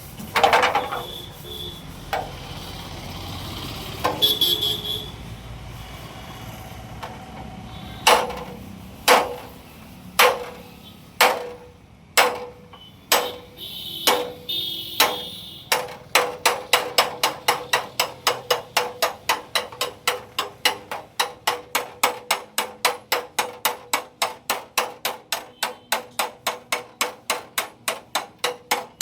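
Hammer beating out a dent in a Swift Dzire's steel front fender: after a few scrapes and knocks, single blows come about a second apart, then a fast even run of about three blows a second, each with a short ring.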